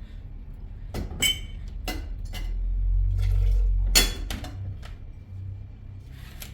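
Several sharp clinks and knocks, a couple of them ringing briefly, like hard objects such as dishes being handled, over a low rumble that builds up and fades away in the middle.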